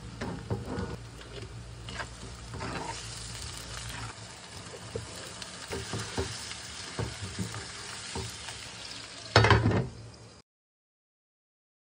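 Onions and then chicken pieces frying in oil in a stainless-steel wok, a steady sizzle with the scrape of a spatula stirring. Near the end comes a louder clatter as a glass lid is set on the wok, and then the sound cuts off abruptly.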